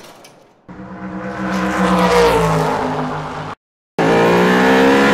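Dubbed car engine sound effect: an engine revving, rising and then falling in pitch, cut off abruptly, then after half a second of silence a second steady rev that also stops suddenly.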